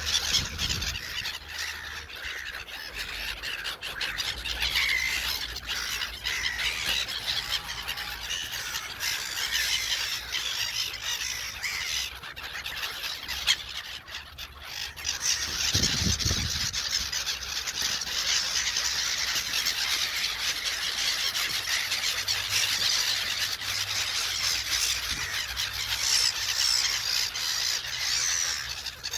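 A flock of gulls calling continuously, many high calls overlapping at once. A brief low thud comes about halfway through.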